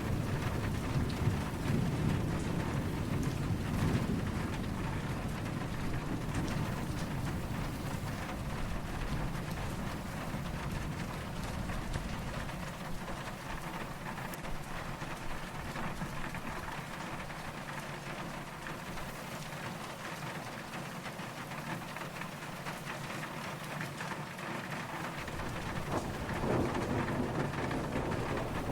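Steady rain falling, with a low rumble of distant thunder in the first few seconds that fades away and comes back near the end.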